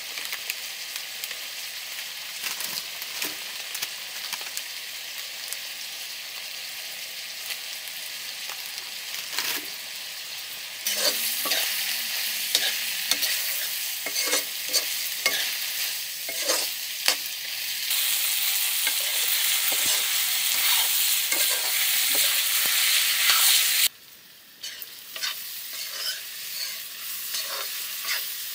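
Food frying and sizzling in a pan, with repeated scrapes and knocks of a spoon stirring it. The sizzle gets louder about eleven seconds in and drops off abruptly about four seconds before the end.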